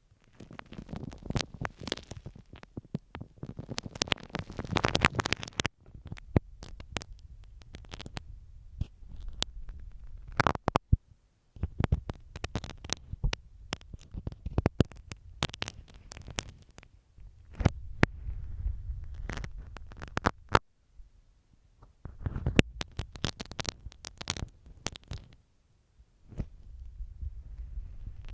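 Masking tape on a recorder's microphone being worked close-up: first rubbed with a spiky ball, then, after a brief pause about six seconds in, scratched and tapped with a marking pin. It gives crackly scratching full of sharp clicks over a low rumble, in bursts with short pauses.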